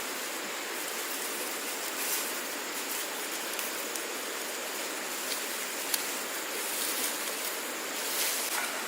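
Steady rush of flowing water, with a few faint knocks.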